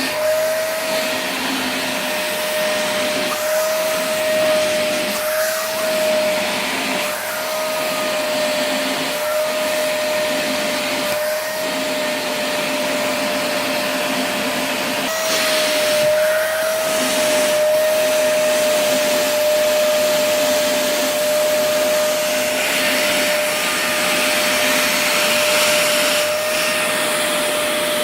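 Vacuum cleaner running continuously with a steady motor whine over rushing air, the air noise rising and falling now and then as it is worked over a husky's coat.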